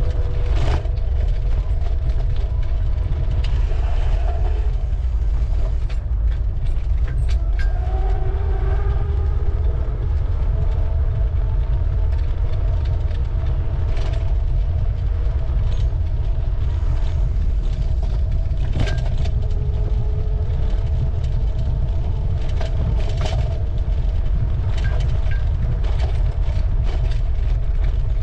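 Steady low rumble of wind and rolling noise on the microphone of a camera carried while cycling, with scattered light clicks and rattles and a faint hum.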